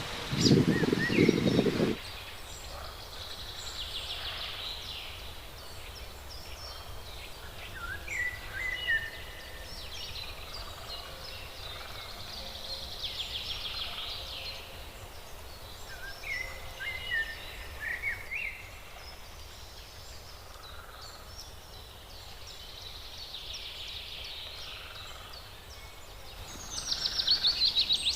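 Wild birds singing: repeated high trills recur every few seconds, with short whistled notes in between, over a steady outdoor background. A loud low rumble, like wind on the microphone, runs for the first two seconds.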